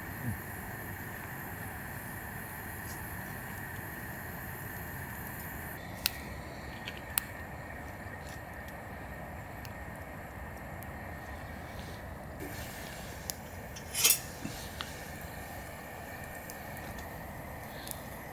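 A few sharp, isolated clicks and clinks over a steady background hiss, the loudest about two-thirds of the way through.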